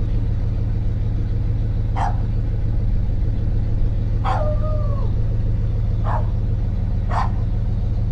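Dodge pickup's engine idling steadily, with a dog barking four times over it, one bark drawn out into a longer whining call.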